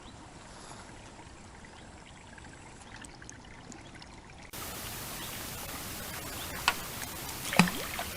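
Steady rush of flowing river water, jumping suddenly louder and brighter about halfway through, with a couple of sharp clicks near the end.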